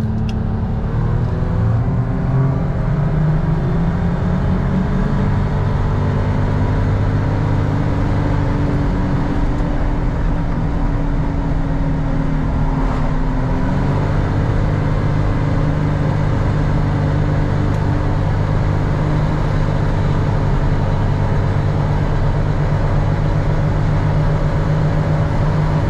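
Antique tractor engine running while the tractor is driven along, a continuous engine note. The pitch shifts in the first couple of seconds and rises again about halfway through.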